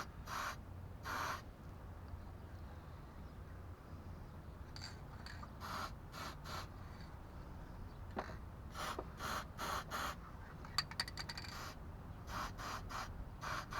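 Aerosol can of CRC dry PTFE lube sprayed in repeated short hissing squirts onto the front suspension joints, with a quick run of clicks a little after the middle. The joints are being lubricated one by one to find which one is squeaking.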